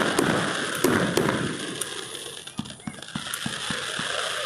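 Fireworks crackling and popping in quick, irregular cracks. The crackle thins out about halfway through and picks up again near the end.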